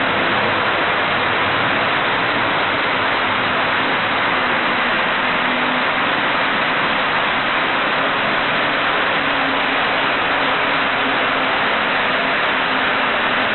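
HO gauge model train running on the layout: a steady rushing rumble of wheels on rail with a faint motor hum underneath, unchanging throughout.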